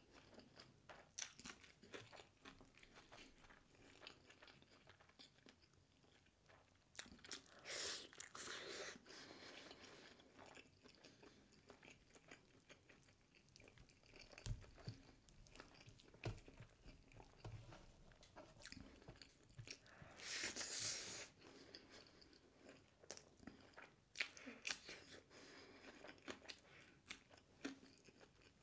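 Chewing and biting while eating rice and egg curry by hand, with short crunchy bites. Louder spells of crunching come about 7 seconds in, around 20 seconds and about 24 seconds in.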